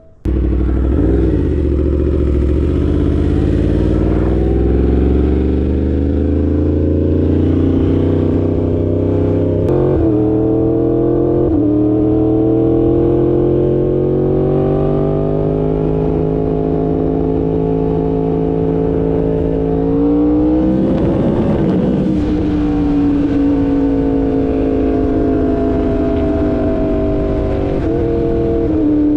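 2016 Yamaha R1's crossplane inline-four engine running under way, its pitch climbing slowly and then dropping back several times as it pulls through the gears.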